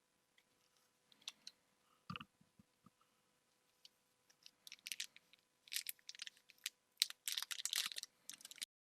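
Crinkling and crackling of a foil Pokémon booster pack wrapper being handled, sparse at first and then dense for the last few seconds before stopping abruptly, with a soft thump about two seconds in.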